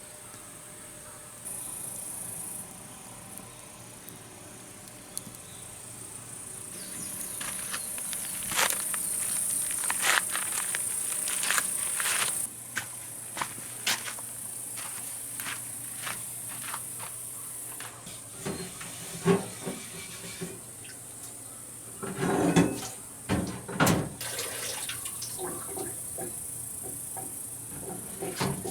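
A steady high-pitched insect chorus that swells and fades, with scattered sharp clicks and a few louder knocks in the last third.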